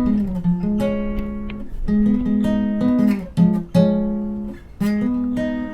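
Acoustic guitar music: plucked and strummed chords with sharp note attacks.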